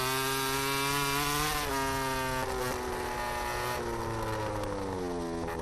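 Racing motorcycle engine running at high revs with a steady note, its pitch stepping down slightly twice and then sinking slowly in the second half.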